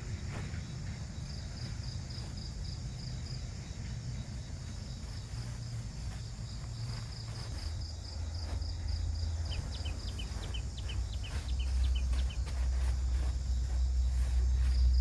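Forest insects chirping in a steady, quickly pulsed high trill, with two short runs of quicker chirps, once near the middle. Beneath them runs a low rumble that grows louder near the end.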